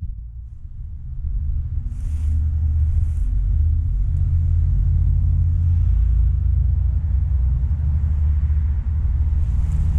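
A steady low rumble that swells over the first two seconds and then holds, with brief faint hissy rustles about two and three seconds in and again near the end.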